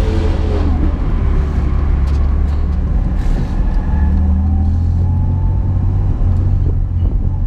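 Car engine and exhaust droning low inside the cabin while driving slowly, with a faint whine that rises slightly in pitch around the middle.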